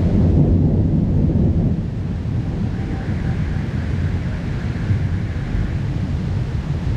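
Rolling thunder rumble during a heavy rainstorm, a deep low roar that is loudest in the first couple of seconds and then eases to a steady rumble.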